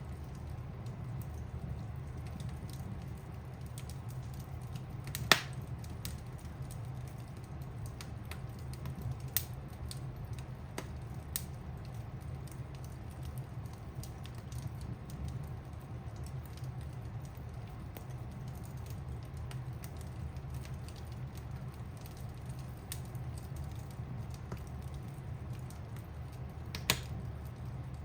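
Wood fire crackling in a fireplace: scattered small pops and snaps over a steady low rumble, with a sharp loud pop about five seconds in and another near the end.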